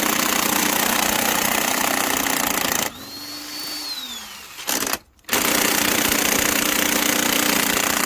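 Power impact wrench hammering on a tight fastener on a diesel engine. About three seconds in the hammering stops and the motor's whine falls in pitch as it spins down. After a brief silence it hammers again for about four more seconds.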